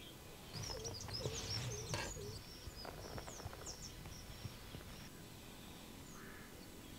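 Small birds chirping faintly, with a cluster of short high chirps from about half a second to three and a half seconds in, then quieter.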